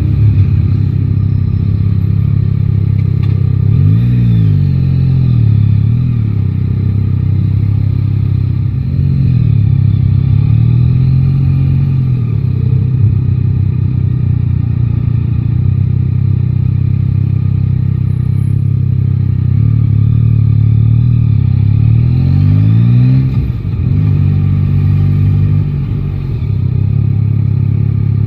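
Yamaha Tracer 9 GT's 890 cc inline three-cylinder engine running under way, its pitch rising and falling several times as the throttle opens and closes, with a sharp drop after one rise near the end. A steady low rumble of wind on the microphone runs under it.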